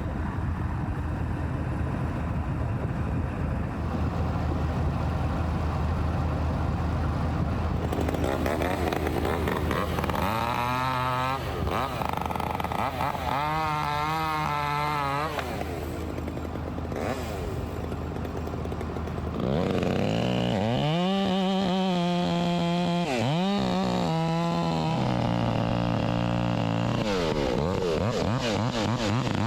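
A crane's engine runs with a steady low hum. From about ten seconds in, a chainsaw revs up and down repeatedly as it cuts into the tree, getting louder about twenty seconds in.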